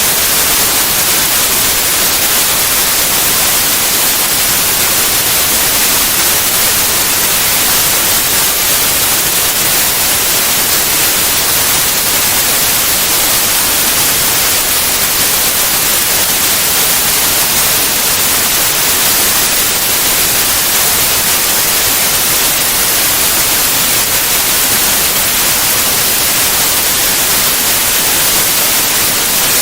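White noise: a steady, even hiss across all frequencies, without change.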